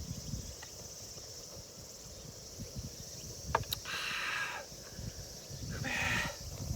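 Open-air ambience: a steady high insect chirring with gusts of wind rumbling on the microphone, a few light clicks, and two short calls about two seconds apart.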